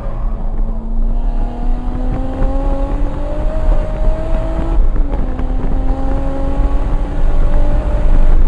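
Single-turbo 1994 Toyota Supra's 2JZ-GTE straight-six accelerating with the revs climbing steadily. About five seconds in the pitch drops as it shifts up a gear, then it climbs again. A heavy low rumble runs underneath.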